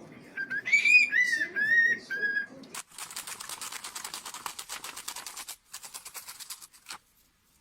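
A pet bird whistling a few short rising-and-falling notes. About three seconds in, a fast run of sharp clicks takes over and lasts about four seconds.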